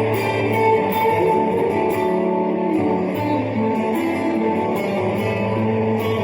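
Live country band playing an instrumental passage led by guitars, with a steady drum beat.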